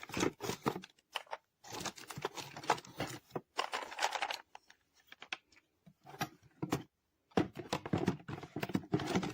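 Toy pieces being pushed back into their cardboard-and-plastic packaging: irregular rustling, crinkling and scraping, with a couple of brief pauses.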